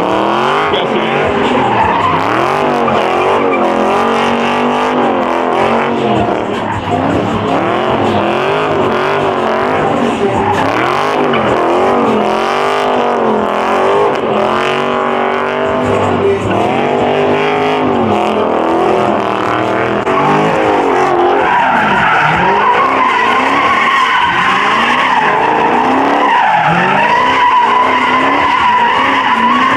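A muscle car's engine revving hard up and down over and over with tyres squealing, as in burnouts or donuts in a pit. About two-thirds of the way through, a long wavering tyre squeal takes over.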